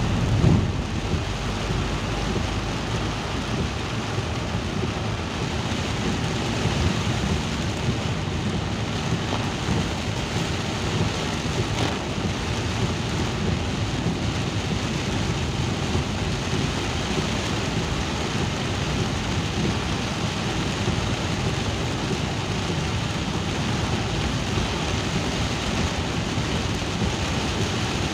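Steady rain with a continuous low rumble beneath it, even throughout.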